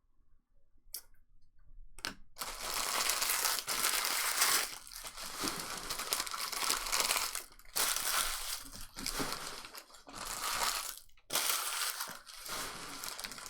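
Trading-card pack wrappers being torn open and crinkled, starting about two seconds in and going on in long spells with short breaks between them.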